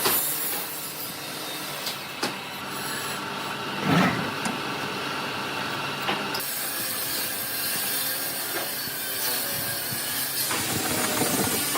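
Tools working on old wooden boards, with rubbing and scraping and a few sharp knocks. The sound changes character abruptly a couple of times.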